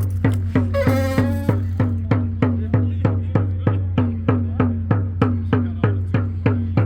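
Drum circle: several hand drums played together in a steady, even beat of about three to four strokes a second, over a steady low hum. A held note sounds briefly about a second in.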